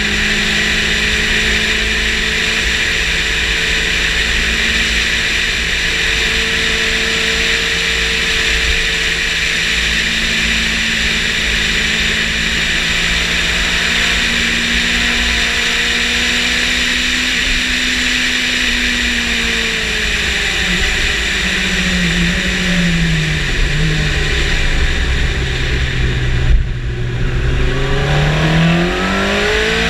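Yamaha motorcycle engine running hard at a steady high pitch, with a constant rush of wind noise. In the last third its note falls in a few steps as the bike slows, stays low briefly, then climbs again as it accelerates.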